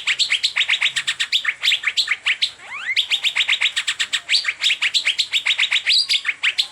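Asian fairy-bluebird (cucak biru) singing: a fast run of sharp, repeated chirping notes, about six a second, broken by a few rising whistles and two short pauses.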